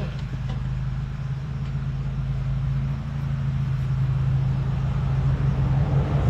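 Allis-Chalmers farm tractor engine idling steadily.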